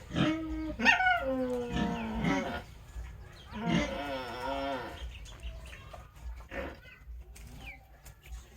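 Pig calling: several drawn-out, pitched squealing calls in the first five seconds, the longest near the middle wavering and falling in pitch, followed by shorter, fainter calls.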